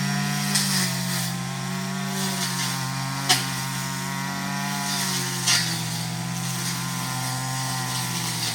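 Petrol brush cutter's small two-stroke engine running steadily at working speed while cutting grass, with a few sharp clicks from the cutting head.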